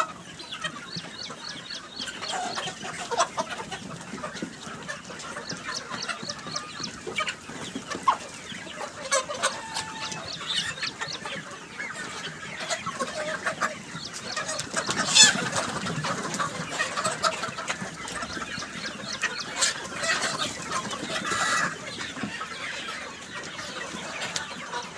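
A flock of Sonali chickens clucking and calling continuously, with a sharp louder call or flap about two-thirds of the way through.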